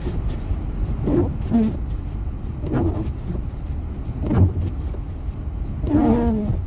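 Steady low rumble of a Honda Pilot SUV driving slowly through deep snow, heard from inside the cabin. A few short bits of low voice come through over it, the strongest near the end.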